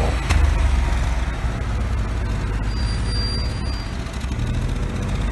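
BMW 520's freshly rebuilt engine running, heard close to the exhaust with a steady low rumble. The engine is burning oil and pouring thick smoke from the tailpipe.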